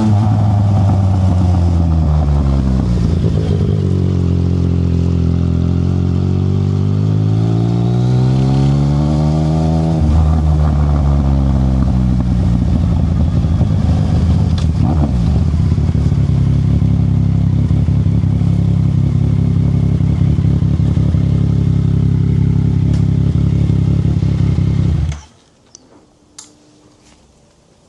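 Yamaha Tracer 900 GT's 847 cc inline-three engine through a Black Widow aftermarket exhaust: its pitch falls, then climbs again as the bike slows and speeds up, then runs steadily. About 25 seconds in the engine sound stops abruptly, the engine switched off, leaving a few faint ticks.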